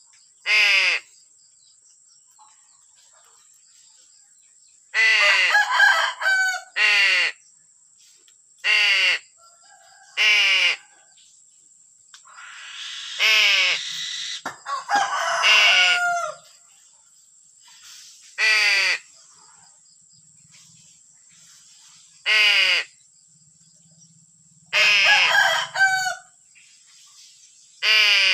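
Birds giving harsh, crow-like cawing calls, about a dozen short calls at irregular gaps, some in quick runs of two or three.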